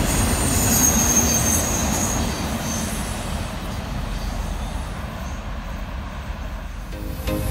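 Freight train of autorack cars rolling past, with a high steel-wheel squeal during the first two seconds. The rumble of the wheels on the rails then fades as the last car moves away.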